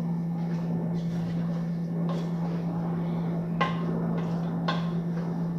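A few light clinks of a utensil against a pot or dish, two of them clearer a little past halfway, over a steady low hum.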